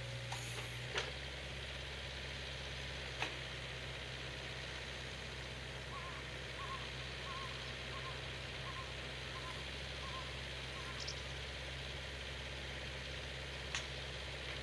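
An engine idling steadily with a low hum, with a few sharp clicks, and a bird calling a series of about eight short repeated notes near the middle.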